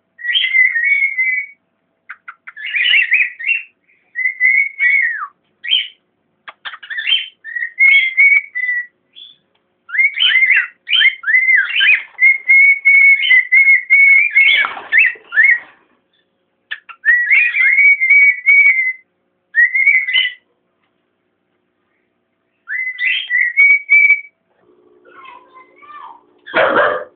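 Cockatiel whistling a warbling song in repeated phrases of one to a few seconds, with short pauses between them. Near the end a louder, harsher sound breaks in.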